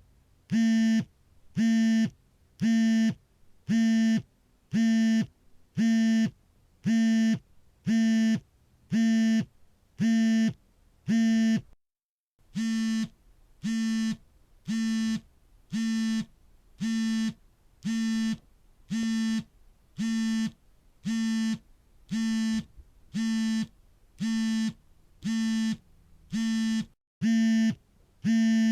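Smartphone vibrating for an incoming call: short buzzes of its vibration motor, about one a second, each roughly half a second long. The pattern breaks off briefly about twelve seconds in and again near the end.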